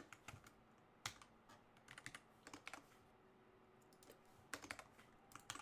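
Computer keyboard typing: scattered quiet keystrokes in short clusters of a few clicks, with pauses between.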